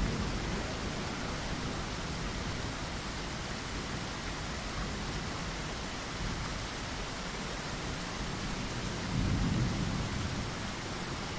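Steady rain falling, an even hiss. A low rumble swells briefly about nine seconds in.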